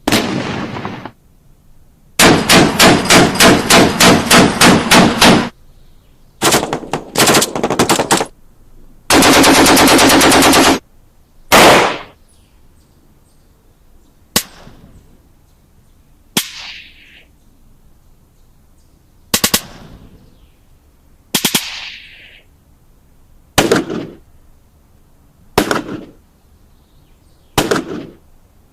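Gunfire sound effects. It starts with a single shot, then about three seconds of automatic fire, then two short bursts. Next comes a very rapid continuous burst of about two seconds. After that, single shots ring out roughly every two seconds, some with an echoing tail.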